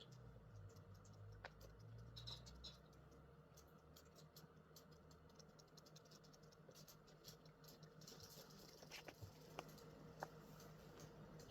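Near silence: faint room tone with scattered light ticks and patters, and a few sharper clicks near the end.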